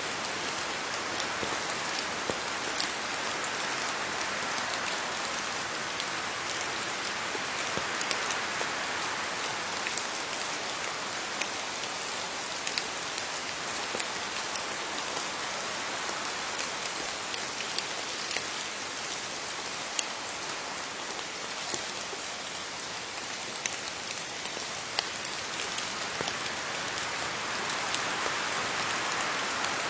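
Steady rain falling on leaves, a continuous patter with many distinct individual drop ticks.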